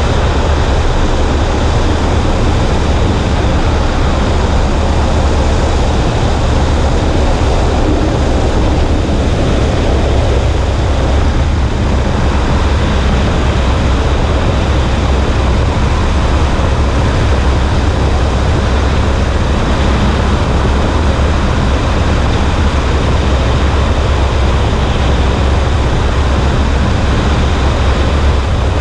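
Cessna 140A light aircraft in steady flight: a constant drone from the engine and propeller with rushing airflow over it, unchanging throughout.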